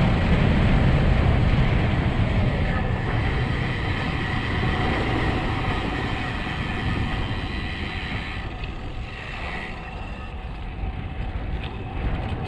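Wind rushing over the camera microphone, with tyre noise on asphalt, during a fast road-bike descent. The rush eases off about two-thirds of the way through.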